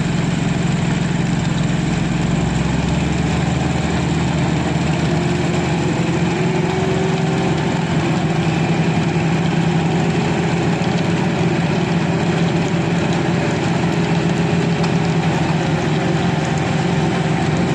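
Concrete mixer truck's diesel engine running steadily, with its deepest rumble dropping away about three seconds in.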